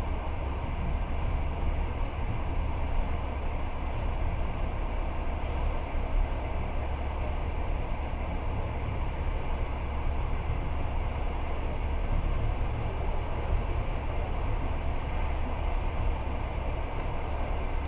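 Passenger train running at speed: a steady low rumble and rushing noise of the wheels on the rails, heard from inside the carriage.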